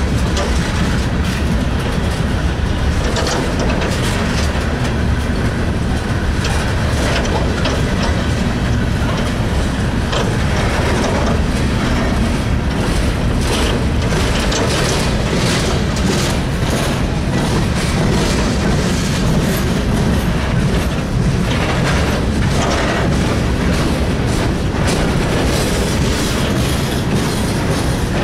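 Freight train's loaded coal cars rolling past at close range: a steady rumble of steel wheels on rail, with repeated clacking and knocking as the wheelsets pass over rail joints.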